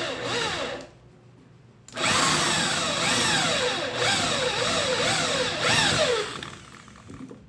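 Small electric mini drill running, its motor pitch rising and falling two or three times a second. It cuts out about a second in, starts again abruptly a second later, and winds down near the end.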